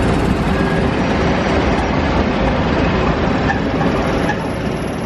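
Two SBB Re 4/4 II (Re 420) electric locomotives heading a passenger train run past along a station platform: a steady loud rumble of wheels on rail and running gear, easing slightly near the end.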